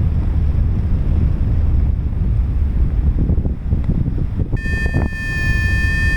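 Strong wind buffeting the microphone in flight, a loud steady low rumble. About four and a half seconds in, a steady high-pitched electronic tone with overtones comes in and holds.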